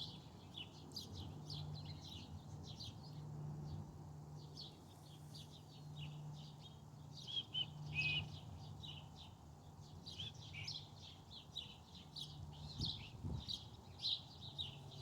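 Backyard birds chirping and twittering faintly: many short, quick chirps, some in clusters, with a steady low hum under them.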